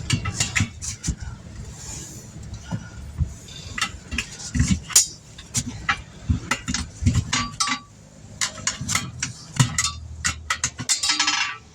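Repeated sharp metallic clinks and knocks of tools and a steel wheel being handled on a tire changer, over a low steady hum.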